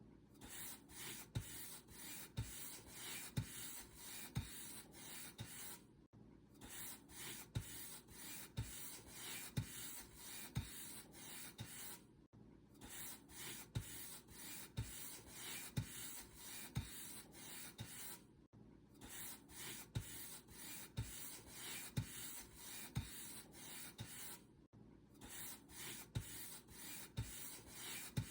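Paint brush bristles stroked repeatedly over a surface, a faint scratchy rubbing at about two strokes a second with a soft low bump at each stroke. The strokes break off briefly about every six seconds.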